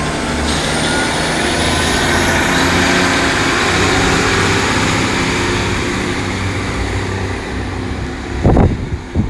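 Double Class 150 Sprinter diesel multiple unit pulling away, its underfloor diesel engines running steadily under power with a high whine rising slowly in pitch. Wind buffets the microphone near the end.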